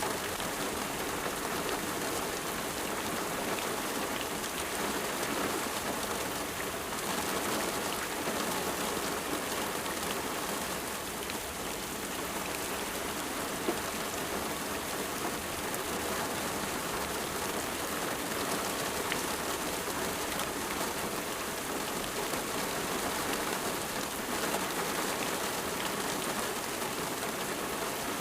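Steady rain falling, an even dense patter of drops with no break, and a single faint click about halfway through.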